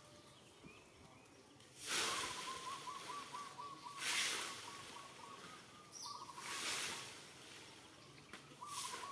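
Outdoor background with a bird calling in a fast run of short, even notes that lasts several seconds and starts again briefly near the end. Several loud rushes of noise swell and fade over it.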